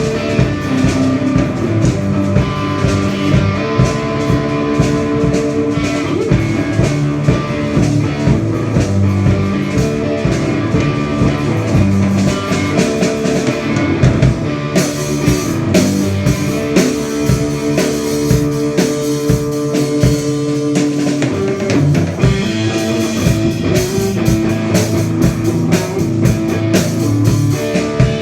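Rock band playing an instrumental passage: drum kit and guitar, with no singing. The top end grows brighter and busier from about halfway through.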